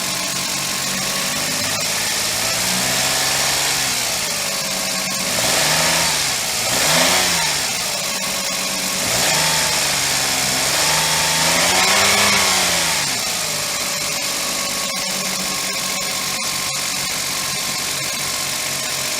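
Suzuki Alto Lapin's K6A 660 cc three-cylinder engine running, revved up and back down several times, then settling to a steady idle about two-thirds of the way in. The seller presents it as running with no abnormal noises.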